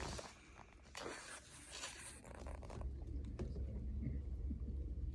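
Faint rustling and scraping with a few light clicks over a steady low rumble.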